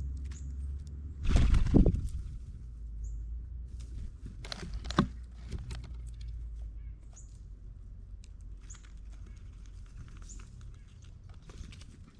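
Birds and squirrels feeding on a ground platform feeder: scattered pecks, clicks and scrabbling. There are two louder knocks, one a little over a second in and one about five seconds in, and faint short high chirps throughout.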